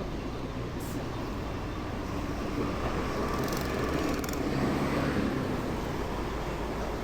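Street traffic heard on the move: a steady rumble of motor traffic and road noise that swells for a couple of seconds midway, as a vehicle passes close by, then settles back.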